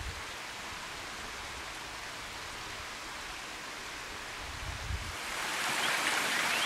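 Steady rushing of water, growing louder and brighter about five seconds in.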